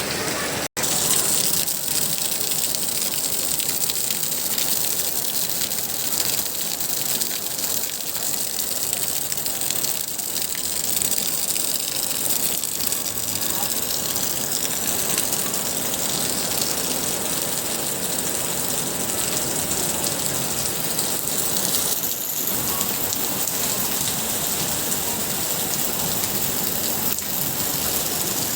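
Heavy rain falling steadily, an even hiss of rain on surfaces. It drops out completely for a split second just under a second in.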